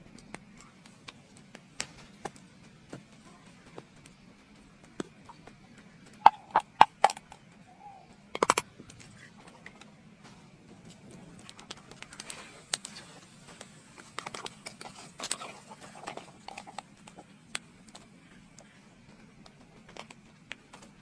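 Irregular knocks and clicks of hand work, loudest in a quick cluster about six to seven seconds in and a sharp knock at about eight and a half seconds, over a faint steady hum.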